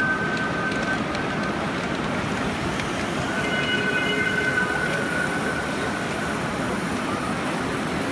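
7¼-inch gauge live-steam locomotive, a model of a D&RGW Baldwin C19, running with its train on a cab ride: a steady rolling, rumbling noise. A high, thin squeal fades out about a second in, and another rises about three seconds in and fades by six and a half seconds.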